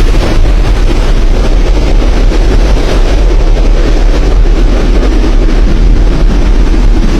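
Cyclone-force wind blasting across the microphone, a loud, steady, deep rumbling roar with no letup.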